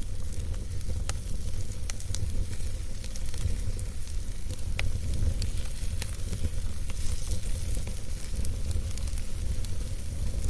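Campfire burning, with scattered sharp crackles and pops from the wood over a steady low rumble and hiss of the flames.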